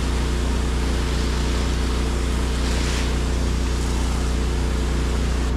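Engine-driven pressure washer running steadily with its high-pressure spray hissing from a wash jet tip on a long extension wand; the spray cuts off at the very end.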